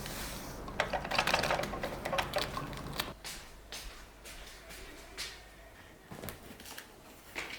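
Irregular small clicks and rustling of objects being handled, densest in the first few seconds. A low hum underneath stops about three seconds in.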